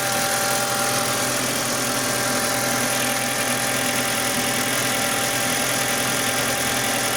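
Audi 1.8T turbocharged inline-four engine idling steadily with its serpentine belt removed, so no alternator or other accessories are being driven, shortly after a cold start.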